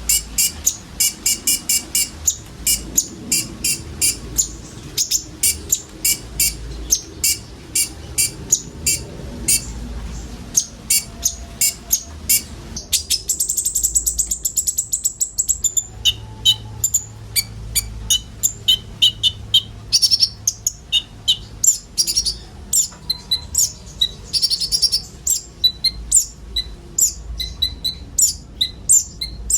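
Konin (brown-throated sunbird) singing: a fast run of sharp, high chirps, broken about halfway by a drawn-out high trill lasting a few seconds before the chirping resumes.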